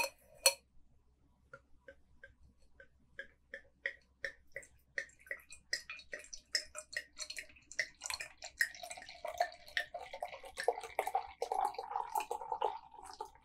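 Beer poured from a glass growler into a large glass: a string of glugs that comes faster and denser, then from about eight seconds in the rising note of the glass filling up. Two sharp clicks at the very start.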